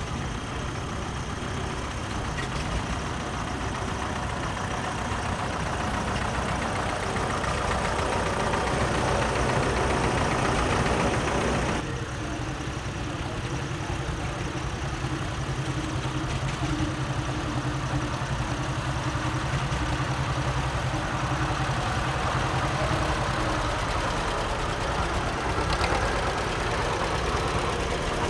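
Antique tractor engines running as tractors drive past. The engine sound swells for about twelve seconds, changes abruptly, then settles into a steadier, lower engine note.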